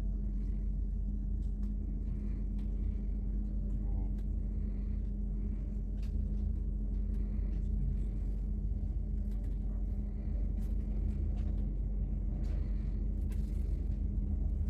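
Passenger train running, heard from inside the carriage: a steady low rumble with a constant hum and faint scattered ticks.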